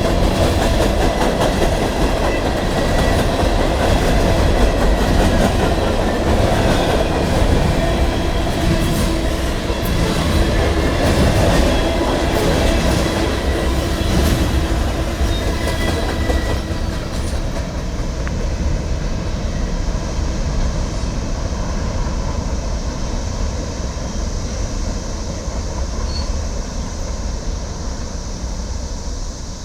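A train rolling past, its wheels clattering over the rail joints. About halfway through the clatter dies away, leaving a steady high drone of cicadas over a fading low rumble.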